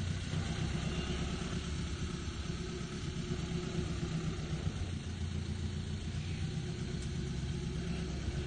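1931 Ford Model A's freshly rebuilt four-cylinder flathead engine running steadily with a low rumble as the car drives slowly past at low speed.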